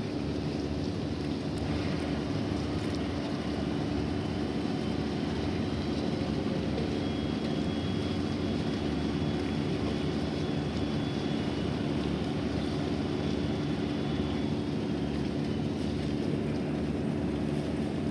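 Ship's engine running with a steady, even drone.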